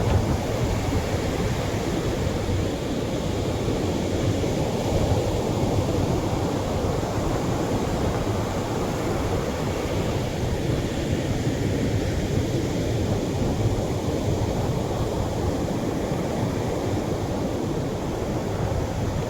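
Gentle Atlantic surf washing on a beach shore: a continuous, even wash of small waves, with no single crash standing out.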